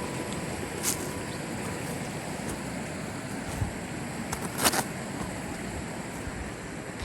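Mountain river rushing steadily over rocks, with a few sharp clicks, the loudest about two-thirds of the way through.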